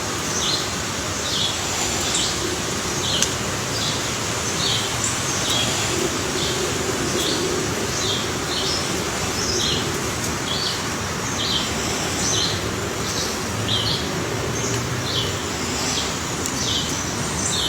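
A bird calling with short high chirps repeated steadily, a little more than one a second, over a constant background hiss.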